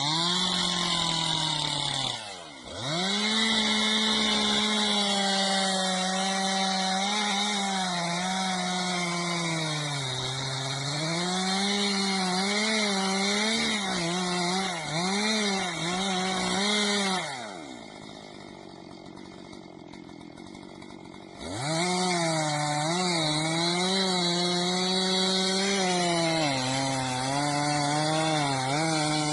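Chainsaw running hard and cutting wood, its pitch sagging and recovering again and again as the chain loads up in the cut. A little past the middle it falls off and is much quieter for about four seconds, then revs back up and carries on cutting.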